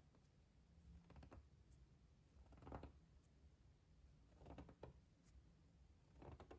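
Faint ASMR trigger sounds: four soft scratchy strokes about every one and a half to two seconds, with near silence between.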